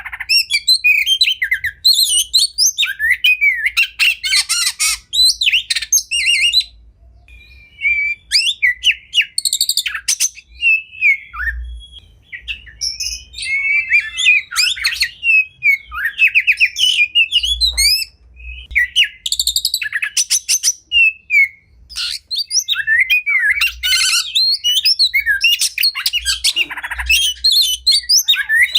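Oriental magpie-robin (kacer) singing a long, varied song packed with mimicked phrases ('isian') and rapid chattering volleys ('tembakan'), mixing whistles, trills and harsh notes, with a couple of brief pauses.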